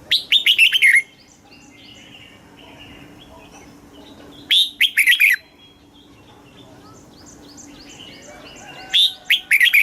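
Red-whiskered bulbul singing three short, loud phrases of quick falling notes, about four seconds apart. Fainter chirps from other birds come between the phrases.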